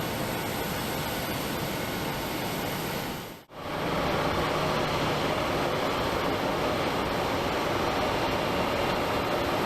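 Steady jet aircraft engine noise, broken by a sudden momentary drop-out about three and a half seconds in, after which it comes back slightly louder.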